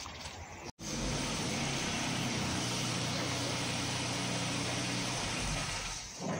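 A vehicle engine running steadily, a low even hum under a loud hiss. It cuts in abruptly after a brief dropout just under a second in, and the hum stops shortly before the end.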